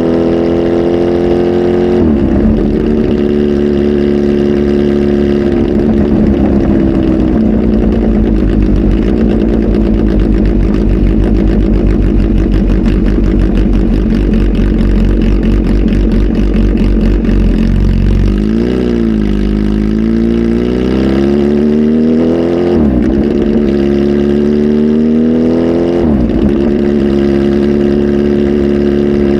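Kawasaki ZH2 SE's supercharged inline-four running loud through a full aftermarket exhaust, with a flash tune. Its engine note climbs and drops sharply several times, holds steady in between, and rises and falls quickly for a few seconds past the middle.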